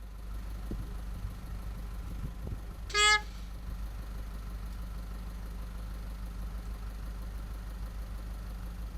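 A single short horn toot about three seconds in, over a steady low rumble.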